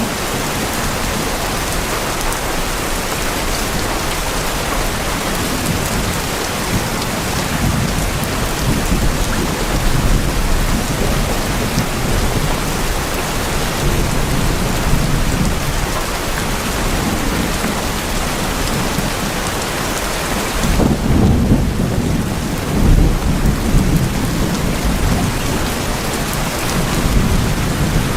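Steady heavy rain falling on a tin roof, a dense even patter, with a low rumble of thunder swelling about two-thirds of the way through.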